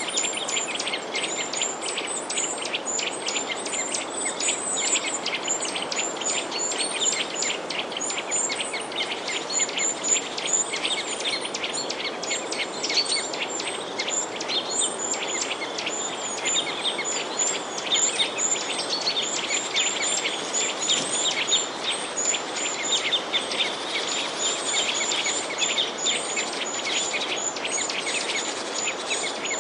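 Many small birds chirping in a dense, continuous chorus of rapid short calls, over a steady background hiss.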